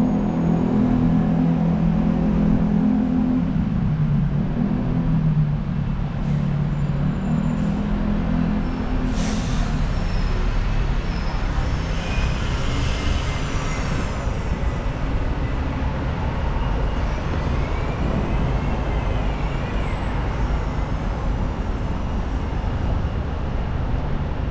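Road traffic with buses: a heavy engine running for the first several seconds, short hisses of air brakes around nine and twelve seconds in, and a continuous rumble of passing vehicles.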